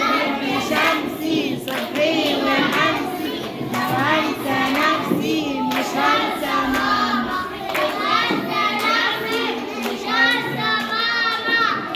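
A group of young children singing a song together, with pitched, drawn-out sung notes throughout.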